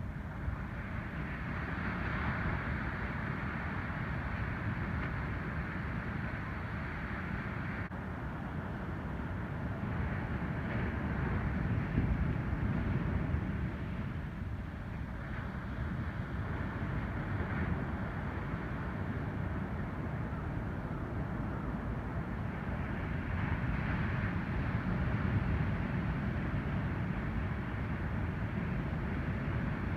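Ocean surf: waves breaking and washing up the beach, the typhoon groundswell starting to come in, with wind on the microphone. The roar swells and eases, loudest about twelve seconds in and again near the end.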